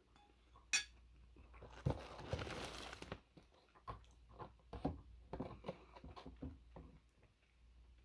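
Cutlery on a plate while eating: a single clink, a scraping stretch of about a second, then a run of small taps and clicks.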